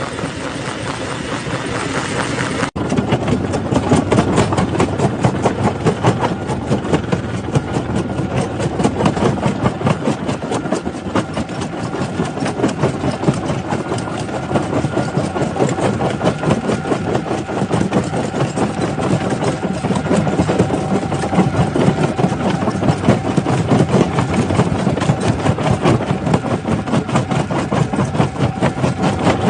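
Jaw stone crusher running, a steady heavy mechanical din with dense rattling and grinding of rock. About three seconds in the sound drops out for an instant, then comes back somewhat louder.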